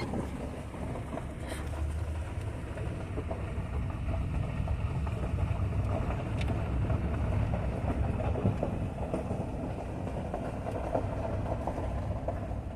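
Steady low rumble of a vehicle driving slowly, heard from inside the cab: engine and tyre noise.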